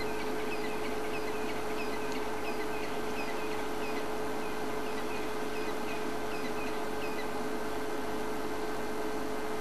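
A bird calling in a run of short, high, falling chirps, about two a second, that stops about seven seconds in. A steady electrical hum and hiss lies under it.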